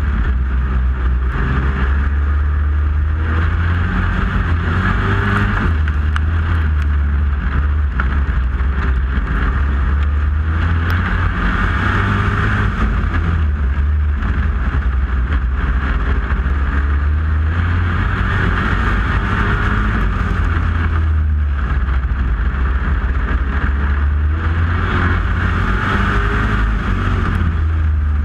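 A loud engine drone that holds steady the whole time, without clear revving up or down.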